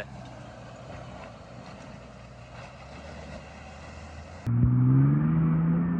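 A four-wheel-drive vehicle's engine runs with a low, steady hum. About four and a half seconds in, an abrupt cut brings in a much louder engine revving up, its pitch rising and then holding.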